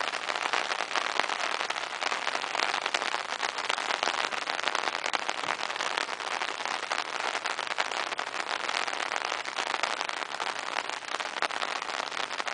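Steady rain falling, a dense patter of many fine drop ticks.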